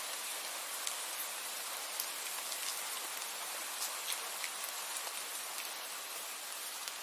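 Steady rain falling: an even hiss, with individual drops ticking sharply on a surface every so often.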